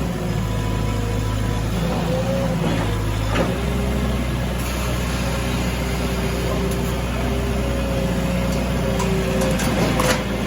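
Heavy engine running steadily, with a whine that steps up and down in pitch. A sharp knock comes about three and a half seconds in, and another near the end.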